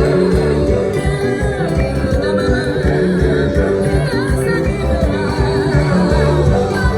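Band music with singing voices over a steady, pulsing bass beat.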